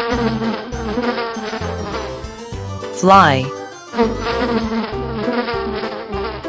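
Housefly buzzing, continuous and wavering in pitch.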